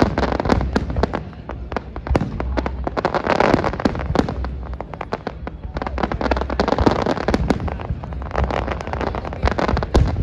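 Aerial fireworks display: a rapid, uneven series of sharp shell bursts, with denser swells of crackling about three seconds in and again around seven seconds.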